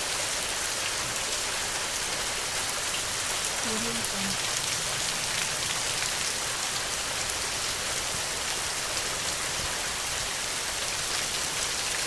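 Steady rain falling on a surface: an even hiss with many small drop ticks through it.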